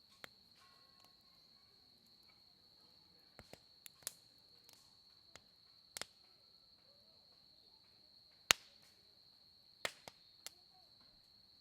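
Firewood in a campfire crackling, with about a dozen scattered sharp pops; the loudest comes about eight and a half seconds in. Crickets trill steadily and high underneath.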